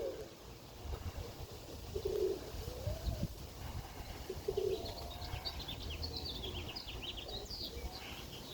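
Pigeons cooing, three short coos a couple of seconds apart, with small birds chirping in quick high notes over the second half. Wind rumbles on the microphone underneath.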